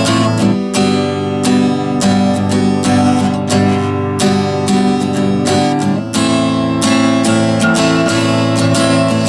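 Acoustic guitar strung with strings a year or two old, strummed in steady rhythm through a short chord progression, the chord changing about a second in and again near six seconds.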